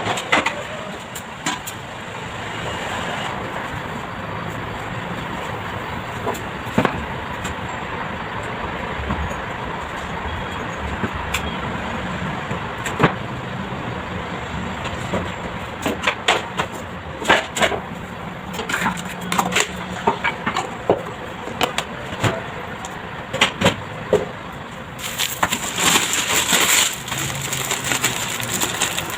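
Household cleaning noises: a steady background hiss with scattered clicks and knocks of things being handled, coming thicker in the second half, and a few seconds of louder hissing about 25 seconds in.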